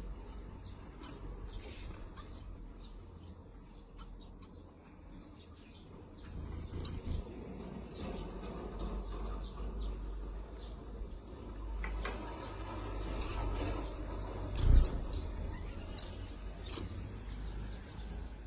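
Steady high-pitched chirring of insects, like crickets, with scattered short chirps of small birds over a low rumble; one sharp thump about fifteen seconds in.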